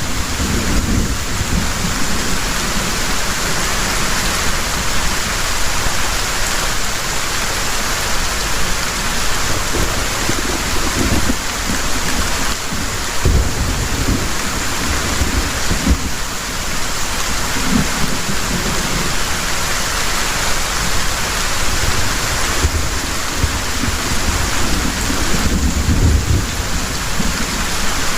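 Heavy rain falling steadily, a dense even hiss, with low rolls of thunder swelling and fading several times.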